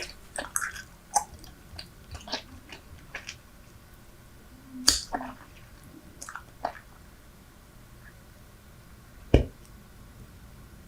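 Close-miked chewing of Super Bubble bubble gum that has gone hard: sparse wet clicks and smacks, busier in the first few seconds, with a louder snap about five seconds in and a sharp pop near the end.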